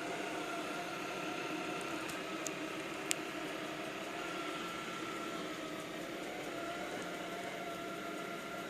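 iClebo Arte robot vacuum cleaner running, its suction fan giving a steady whirring hum with a few steady tones, as it vacuums a sofa. A couple of light clicks come about two and three seconds in.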